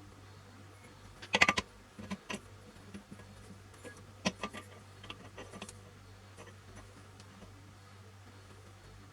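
Scattered clicks and clinks of small hard parts or tools being handled, with a quick cluster about a second and a half in, then a few more over the next four seconds, over a faint steady hum.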